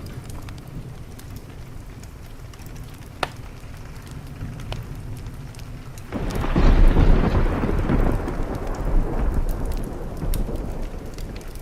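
Thunderstorm: steady rain with scattered sharp clicks and a single louder click about three seconds in, then a loud clap of thunder breaks about six seconds in and rolls on, slowly fading.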